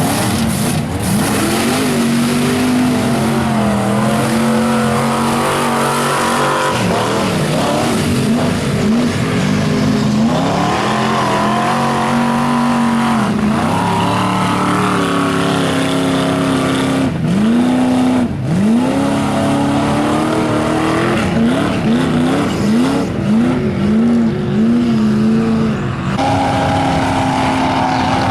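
Mud-bogging truck's engine revving hard, its pitch swinging up and down again and again as the throttle is worked, with a quick run of short blips near the end before it holds a steady high rev.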